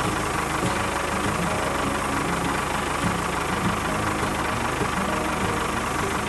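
Small engine running steadily with a rapid, even low pulse.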